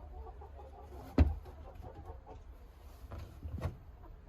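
Backyard hens, Plymouth Rocks and Rhode Island Reds, clucking softly on their perches. A sharp knock comes about a second in, and a few lighter knocks come later.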